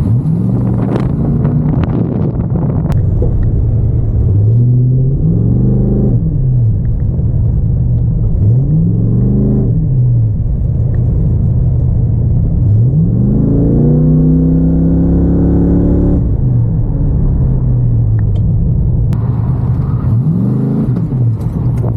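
Third-generation Pontiac Firebird's engine being driven hard on an autocross course, its revs rising and falling about five times as the driver accelerates and lifts between corners, over constant road and wind noise.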